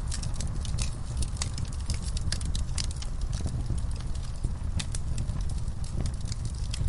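Wood fire in a fireplace crackling: many irregular sharp pops and snaps over a steady low rumble.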